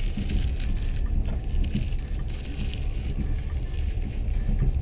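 Passenger train carriage running on the rails, heard from inside: a steady low rumble with light irregular rattles and knocks.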